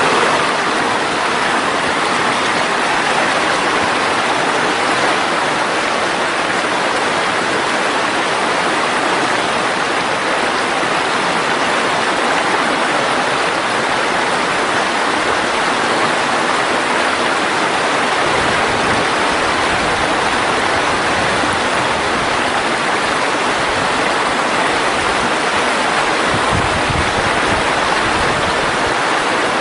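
Mountain valley stream running steadily: a continuous, even rush of flowing water.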